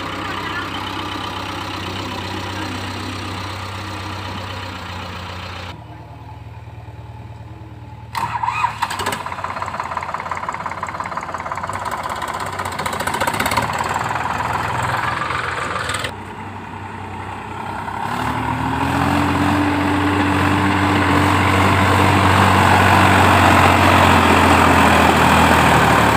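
Diesel engines of a JCB 3DX backhoe loader and a Sonalika 4WD tractor running hard, the engine note shifting several times with a sudden louder stretch about eight seconds in. Over the last several seconds the revs and loudness build steadily.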